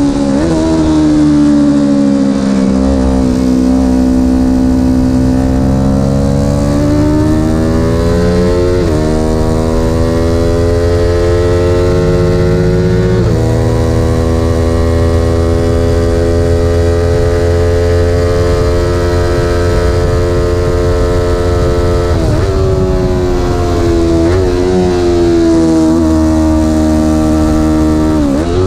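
An engine running steadily and loudly, its pitch sinking and rising with speed, jumping up suddenly about 9 and 13 seconds in, and dropping again near the end.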